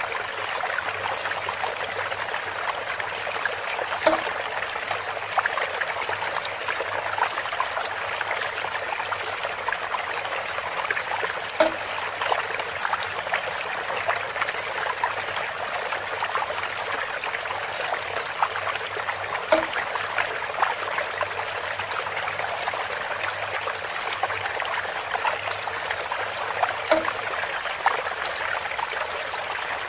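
Water trickling steadily through bamboo, with a short knock four times, about every seven to eight seconds.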